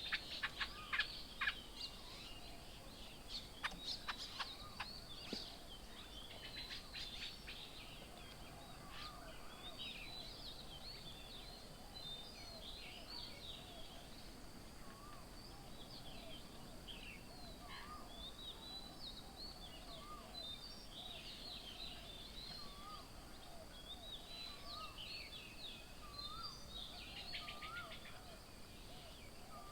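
Several birds calling and chirping at once, with sharp chirps loudest in the first few seconds and, from about ten seconds in, a short rising note repeated about every two seconds beneath the busier higher calls.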